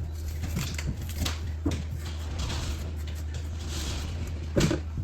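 Kitchen handling sounds: scattered light clicks and rustles over a steady low hum, with one louder knock near the end.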